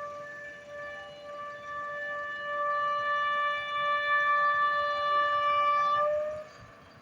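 Diesel locomotive's horn sounding one long steady blast that grows louder and cuts off about six seconds in.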